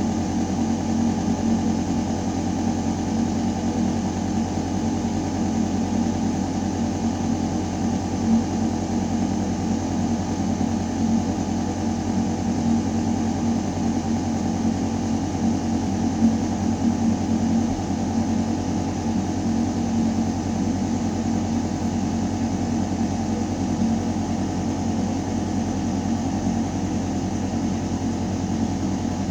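Building ventilation system running in a shaft: a steady low mechanical hum and drone, with air moving through metal ductwork.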